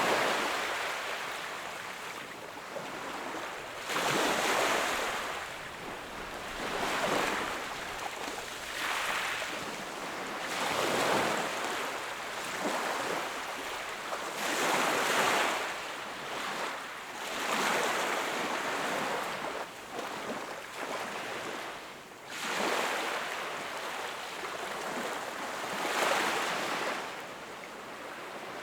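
Small sea waves breaking and washing up onto the shore, a rush of surf swelling and falling away every few seconds.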